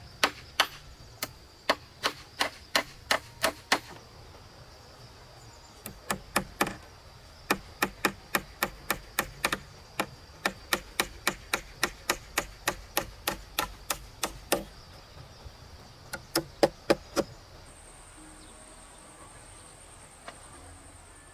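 Rapid, evenly spaced blows of a hand tool striking wood, about three a second, in three runs broken by short pauses about four and fifteen seconds in.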